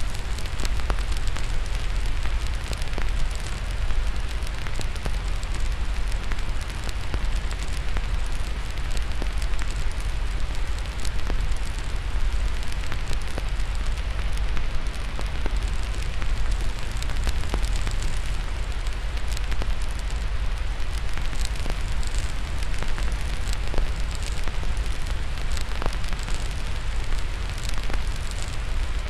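Wood fire crackling, with frequent small irregular pops and snaps, over a steady hiss of white noise and a low rumble.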